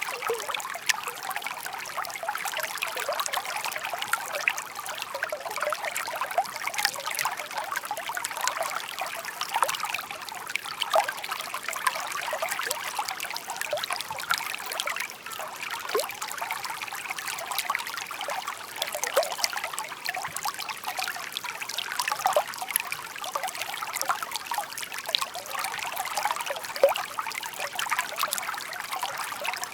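A shallow brook babbling and trickling over stones, a steady bright water sound full of small quick splashes.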